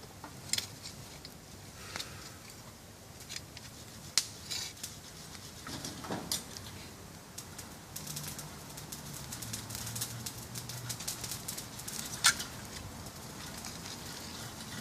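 Wood campfire crackling, with scattered sharp pops and a few louder snaps. A low steady hum comes in for a few seconds in the middle.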